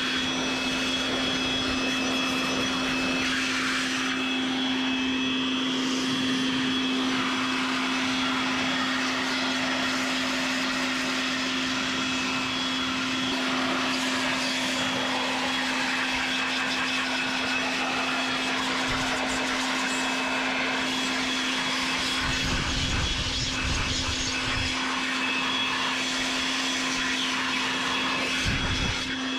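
Electric hand blower running steadily after spinning up, a constant motor hum with a high whine, blowing dust out of an air-conditioning package unit. Low rumbles come and go in the second half.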